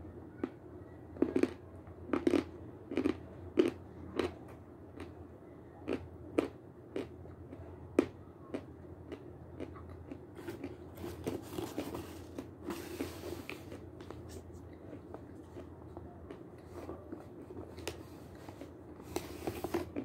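Close-miked chewing of a chunk of Severski edible chalk dipped in yogurt: a run of sharp crunches and clicks through the first eight seconds or so, then softer mouth sounds with two stretches of hissing.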